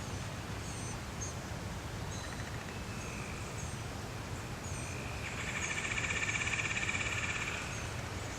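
Small birds chirping in short, high calls, with a buzzy trill lasting about two seconds past the middle, over a steady low rumble.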